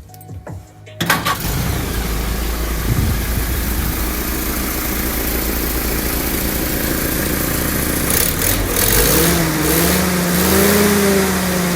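Willys jeep engine catching about a second in and running steadily, then revved up and down gently a few times near the end. It is being test-run with freshly redone valve guides.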